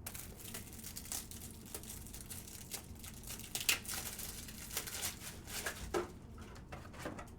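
Rigid plastic card toploaders being handled and restocked: scattered light clicks and crinkly plastic rustling.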